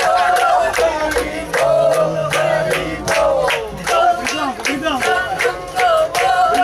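Live devotional singing: one voice carrying a wavering, ornamented melody over steady percussion strikes about three times a second.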